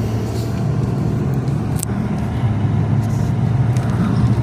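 A car engine running steadily, a constant low hum, with a few faint clicks over it.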